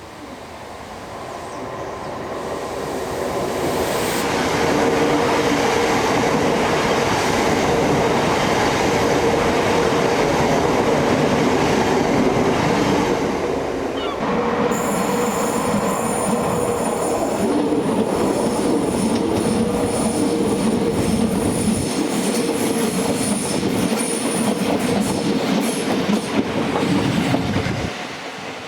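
Class 395 Javelin high-speed electric train passing slowly through the station on curved track, building up as it approaches and holding a steady hum. About halfway through, high-pitched wheel squeal from the curve joins in, and the sound falls away sharply near the end.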